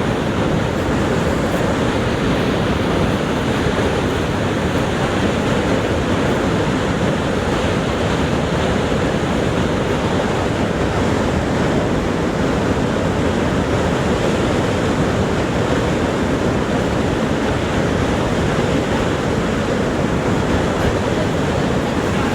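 Niagara Falls' water plunging: a steady, deep rush without breaks or changes.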